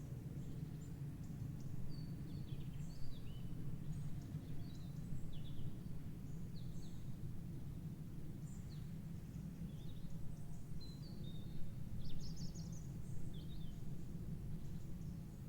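Several small birds chirping and singing over a steady low rumble, with short high chirps and quick falling notes scattered throughout.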